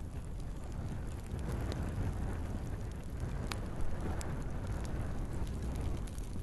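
Log fire burning in a fireplace: a steady low rush of flames with scattered sharp crackles and pops from the wood, one louder pop a little past halfway.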